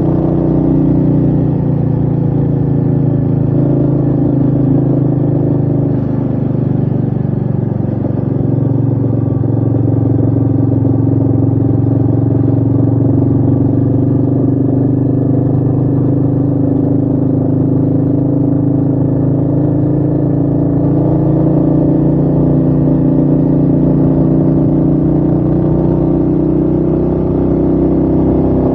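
Royal Enfield Meteor 350's single-cylinder engine running steadily under way, with wind rushing over the microphone.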